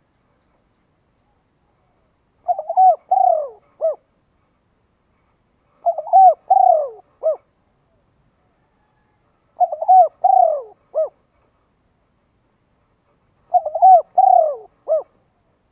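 A bird's call: a short phrase of several quick, arching notes, repeated four times at even intervals of nearly four seconds, with silence between.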